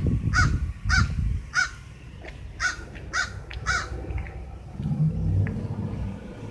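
A crow cawing in a quick series of about nine short caws, one every half second or so, which stop about four seconds in. A low rumble follows near the end.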